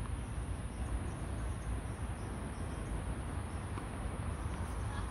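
Steady, high-pitched shrilling of insects, with low rumble underneath. About 4.7 s in, near the end, there is one faint tennis-ball hit off a racket on a serve.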